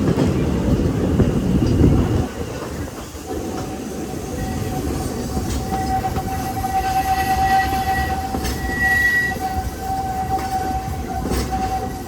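Narrow-gauge steam train of the Walt Disney World Railroad running, heard from aboard: a loud low rumble for about two seconds, then a long, steady high-pitched tone that sets in about three seconds in and keeps going over the rolling noise.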